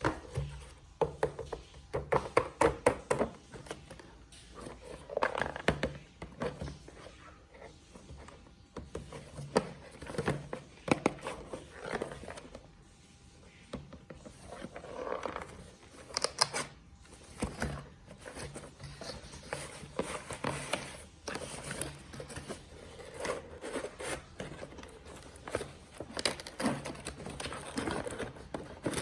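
Hands handling a boxed toy remote-control car and its cardboard and plastic packaging: irregular scraping, rustling, clicks and knocks.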